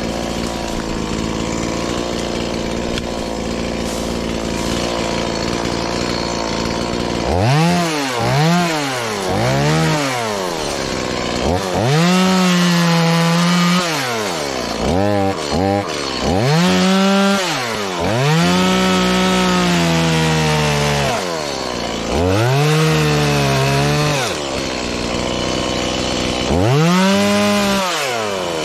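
Stihl MS180, a 31.8 cc two-stroke chainsaw, running and cutting wood: a steady run for the first several seconds, then from about seven seconds in the throttle is opened to full speed and let back down again and again, sometimes held at full speed for a second or two.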